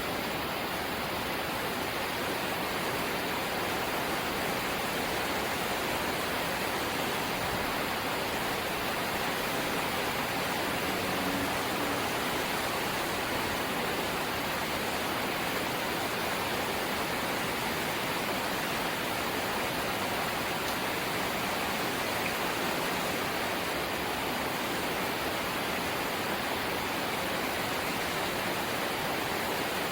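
Rain falling steadily on a corrugated zinc sheet roof, a dense, even hiss with no breaks.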